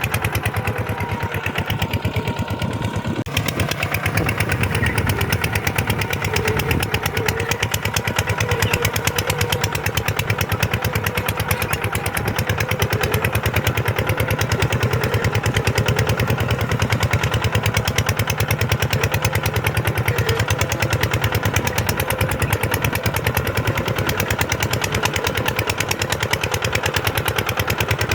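Kubota tractor's diesel engine running steadily, with a rapid, even firing beat. A single sharp click about three seconds in.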